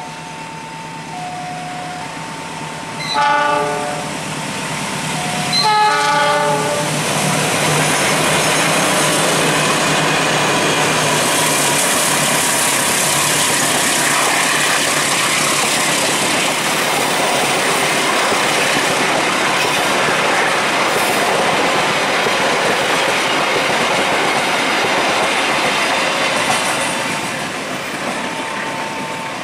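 A level-crossing alarm sounds in alternating two-pitch tones, then a diesel locomotive's horn gives two short blasts about three and six seconds in. The passenger train then passes close by with loud continuous wheel-and-rail noise for about twenty seconds, and the crossing alarm tones come back near the end.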